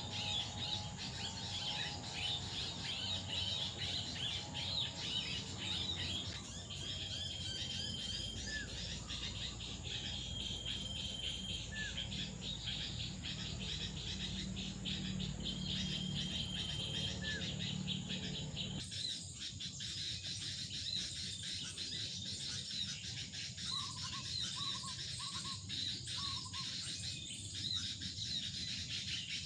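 Forest ambience: insects chirring in a dense, steady high chorus, with a few short whistled bird notes repeated at intervals. About two-thirds of the way through the low background rumble drops away suddenly, and a bird then gives four short, lower notes in quick succession.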